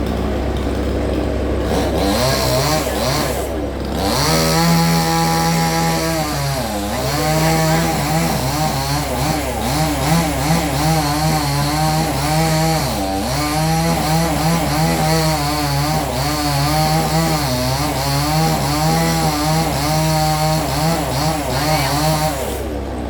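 Chainsaw running at high revs while cutting wood, its pitch sagging and picking up again repeatedly as the chain bites and frees, louder after about four seconds.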